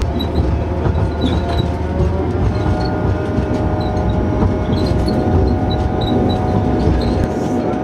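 Chemins de fer de Provence train running along the line: a steady low rumble with a constant hum running through it.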